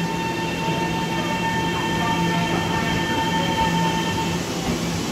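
Taiwan Railways EMU700 electric commuter train pulling out, its running noise carrying several steady high-pitched tones that stop near the end.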